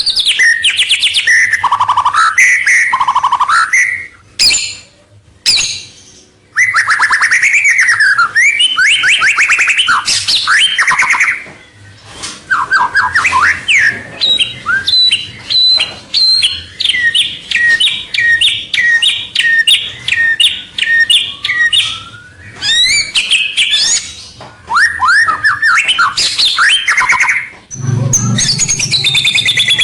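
White-rumped shama (murai batu) singing a loud, varied song of clear whistles and fast rising and falling notes in short phrases. Midway it repeats a two-note whistle, high then low, about twice a second for several seconds.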